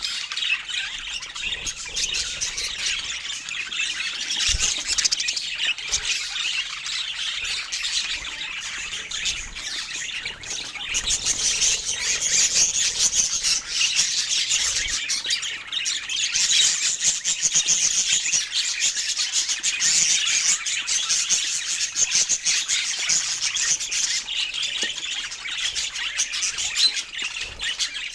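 A group of parakeets chattering and chirping nonstop, with many high calls overlapping. It gets louder about eleven seconds in.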